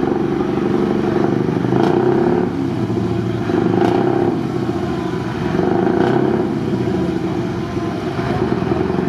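Truck engine running under way, a steady low drone that swells in level about every two seconds.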